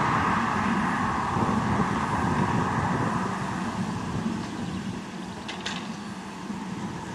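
Train running, a steady rumble that grows gradually quieter as it moves away, with a few faint clicks near the end.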